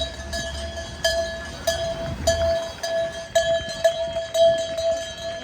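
A cowbell rung over and over, its single ringing tone renewed by rapid strikes several times a second; it stops right at the end.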